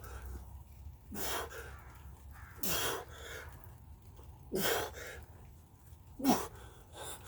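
A man breathing out hard with a short voiced grunt on each push-up, four times at an even pace about every second and a half to two seconds, each grunt falling in pitch.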